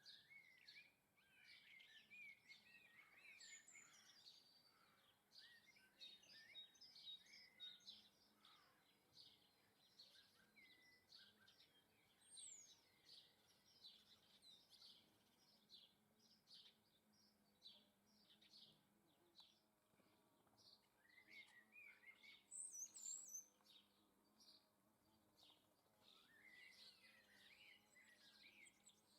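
Small garden birds chirping and twittering faintly, in many short, rapid calls, with a louder run of notes a little past the middle.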